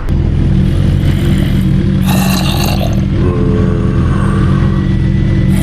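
Motorcycle engine running steadily, heard close up, with a brief hiss about two seconds in.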